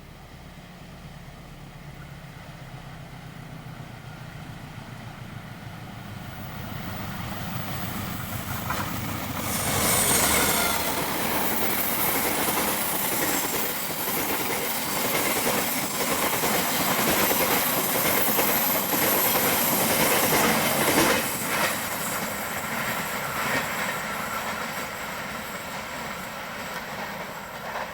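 Diesel-hauled train approaching and passing close by: a low locomotive hum at first, growing louder, then about ten seconds in the loud rush of the passing carriages with wheels clacking over the rail joints, easing off in the last few seconds as it draws away.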